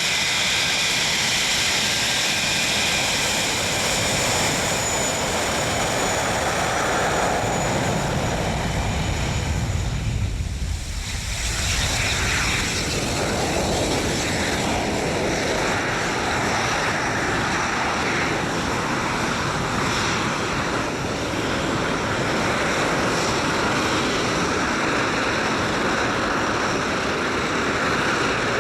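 English Electric Lightning F6 jet running its twin Rolls-Royce Avon turbojets with a steady jet noise. About ten seconds in the sound briefly turns deeper, then returns.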